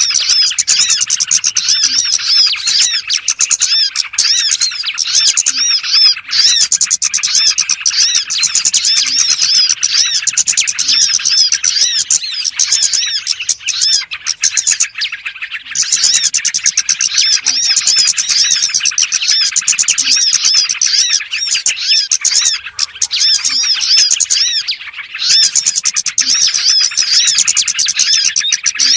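Dense, unbroken chattering and chirping of many small songbirds, played as a lure call (suara pikat) to draw small birds in. It eases off briefly about halfway through and again near the end.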